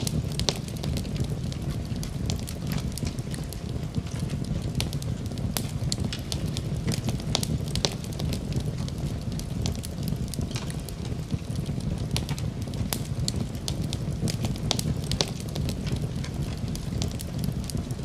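Fire burning in a fireplace, crackling: a steady low rumble of flames under frequent, irregular sharp pops and snaps.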